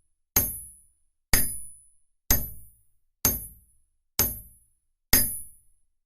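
Hammer striking an anvil, six evenly spaced blows about once a second, each with a short bright metallic ring. It is a sound effect, with dead silence between the blows.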